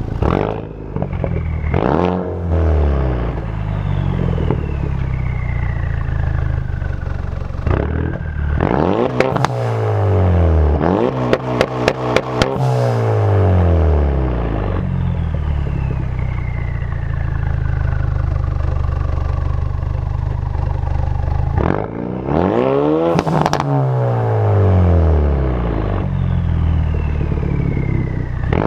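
Ford Focus RS 2.3-litre turbocharged four-cylinder revved several times at standstill through a muffler-delete exhaust with its valve open. Each rise in revs drops back to idle, some with a quick crackle of exhaust pops, and a thin whistle falls away after each rev.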